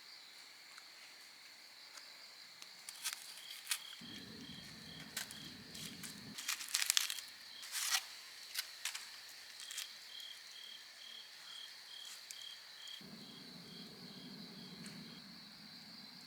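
Crickets chirping steadily in a rapid, even pulse over a constant high insect trill. Midway there is a brief run of crinkling and sharp clicks, the loudest part, from something being handled. A low hum comes and goes twice.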